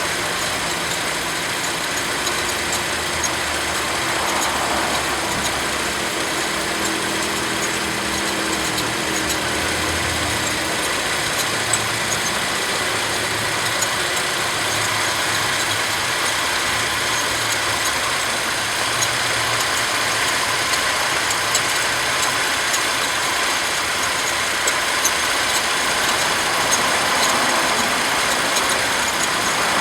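Mercedes M112 V6 engine idling with its serpentine belt chirping: short, high-pitched chirps over the steady engine noise, the sign of a slipping or misaligned belt or a worn idler or tensioner pulley.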